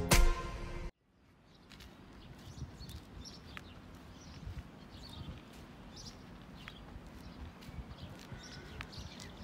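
Background music that cuts off about a second in. Then the faint, steady low rumble of an Öresundståg electric multiple unit rolling slowly past the platform, with short bird chirps and occasional light ticks above it.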